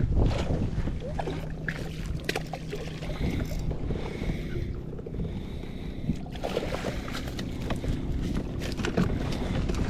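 Kayak under way on a lake: water washing against the hull with wind on the microphone, a faint steady low hum, and scattered small knocks and clicks.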